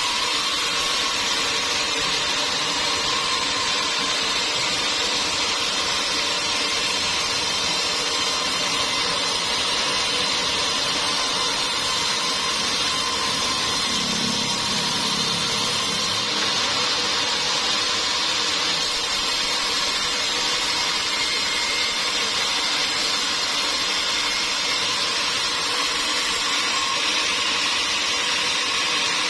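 Sawmill machinery running steadily: an unbroken mechanical noise with a faint steady whine.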